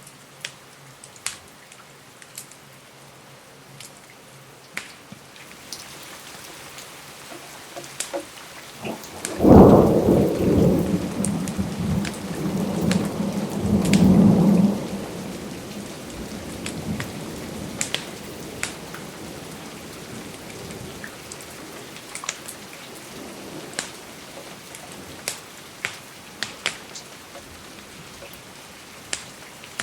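Steady rain with scattered sharp pops. About ten seconds in, a thunderclap breaks into a rolling rumble that swells again a few seconds later, then fades away.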